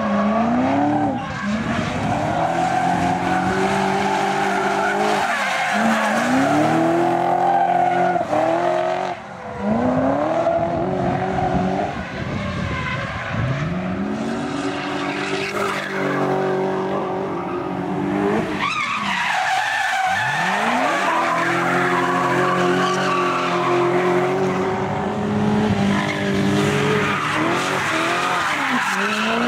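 V8-engined BMW E30 drifting: the V8 revs hard, climbing and falling in pitch again and again, with sudden drops about a few seconds apart, while the tyres skid and squeal through the powerslides.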